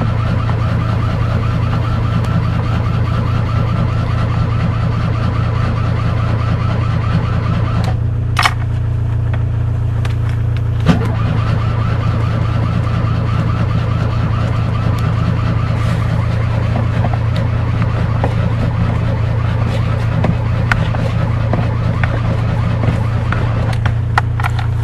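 Fiat 126 engine running steadily after a cold start, with a few short clicks or knocks.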